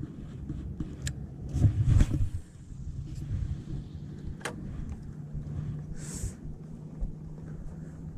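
Wind buffeting the microphone in low rumbling gusts, loudest about two seconds in. A steady low motor hum follows from about halfway, with two sharp clicks.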